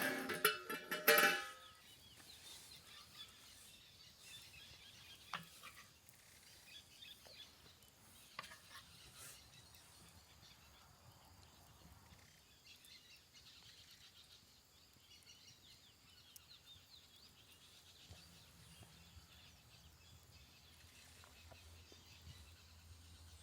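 Plucked guitar music stops about a second in, followed by faint outdoor forest ambience with a few soft scattered clicks.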